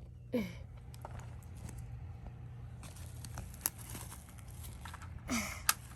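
Toy dolls and small plastic play pieces being handled: soft rustling with a couple of sharp plastic clicks, one a little past the middle and one near the end. A brief vocal sound comes just after the start and another near the end.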